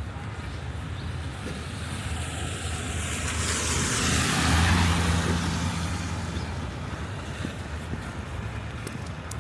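A vehicle driving past on a wet street: its tyre hiss and engine hum swell to a peak about halfway through, then fade back into the steady traffic rumble.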